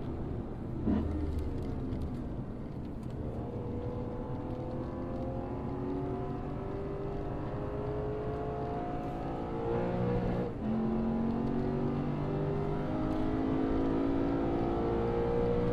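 Lexus RC F's 5.0-litre V8 accelerating, its pitch climbing steadily for several seconds, dropping suddenly at a gear change about ten seconds in, then climbing again. A brief sharp blip about a second in.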